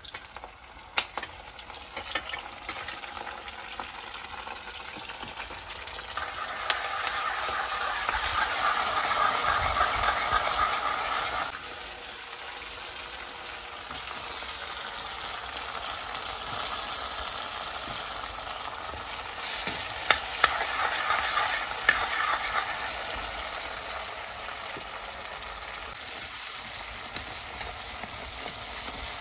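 Fish pieces frying and sizzling in hot oil in a steel wok, stirred with a metal ladle that clicks and scrapes against the pan. The sizzling swells louder twice, about a quarter of the way in and again about two-thirds through.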